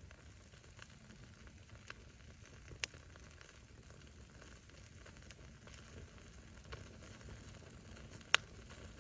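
Wood campfire burning with a low steady rush and scattered crackles of the firewood, including a sharp pop a few seconds in and a louder one near the end.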